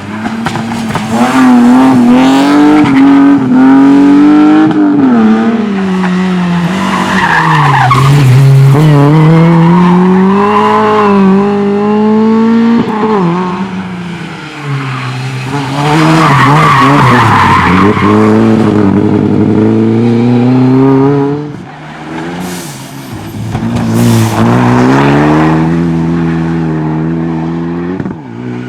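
Rally car engine revving hard at racing speed, its pitch climbing and then dropping again and again as it shifts and brakes. It comes in four loud spells, easing off about a third of the way in and again about three quarters of the way in.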